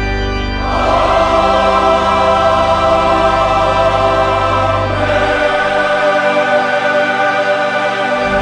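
Choral music: a choir singing long held chords over an accompaniment, the chord changing about a second in and again about five seconds in. The low bass drops out for the last few seconds.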